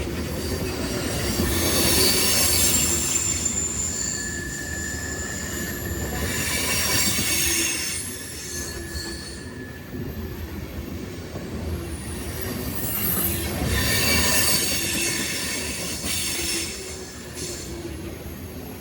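Freight train rolling past with its steel wheels squealing against the rail, over a steady low rumble. The high-pitched squeal comes and goes in three bouts, strongest near the start and again about two-thirds of the way through.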